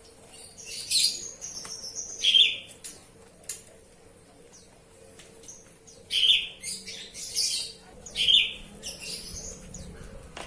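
Oriental magpie-robin chirping and singing in two short bouts of high, loud notes, with scattered short ticks between them.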